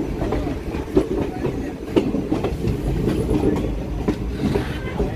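Passenger train running, heard from aboard a coach: a steady low rumble of wheels on track with repeated clicks and knocks as the wheels cross rail joints.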